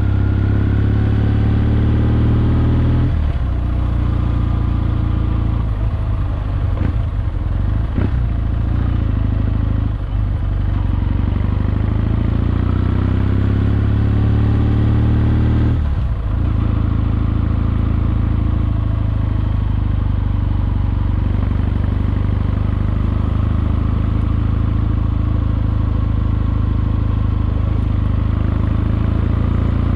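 Kawasaki W650's air-cooled parallel-twin engine running as the bike is ridden. The note dips at gear changes or throttle lifts about three seconds in and again around sixteen seconds, and its pitch climbs steadily before the second dip. A few sharp knocks come around eight seconds in.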